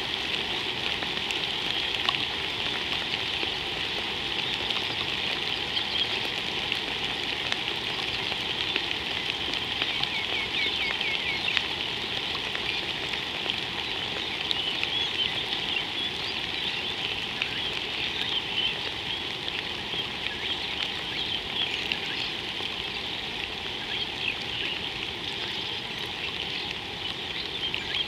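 Steady rain falling, an even hiss with scattered small ticks, and faint short high chirps here and there from about ten seconds in.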